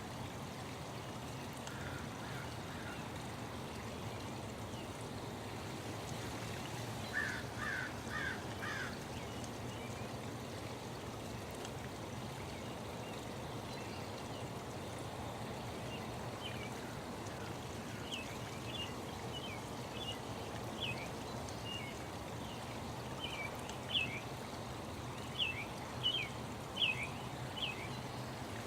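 Birds calling over a steady rush of running water. A quick run of four short chirps comes about a quarter of the way in; from about halfway on, short, sharp chirps repeat more and more often toward the end.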